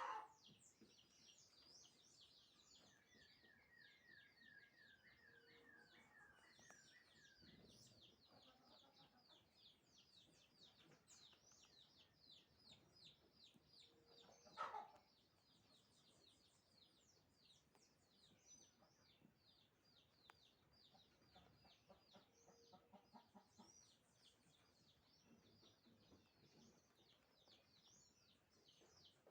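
Many small birds chirping continuously in faint, rapid high notes, with a run of repeated, falling notes from one bird a few seconds in. Two brief louder calls stand out, one at the very start and one about halfway through.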